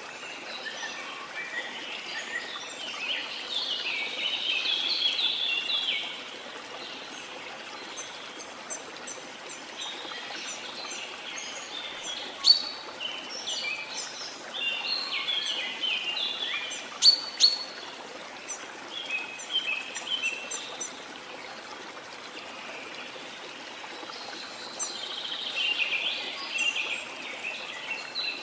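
Birds singing in bursts of rapid, high chirping over a steady rush of flowing water from a waterfall or stream. The song comes in several spells with quieter gaps between, and a few sharp, loud chirps stand out about halfway through.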